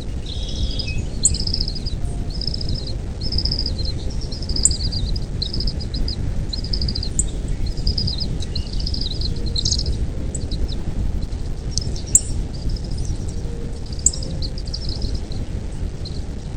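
A bird chirping, short high calls repeated about once a second, with a few sharper, higher ticks between them, over a steady low rumble.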